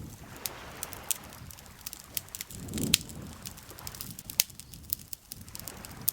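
Campfire crackling, with irregular sharp pops of burning wood, the loudest about halfway through, over a low wash of lake water lapping that swells briefly near the middle.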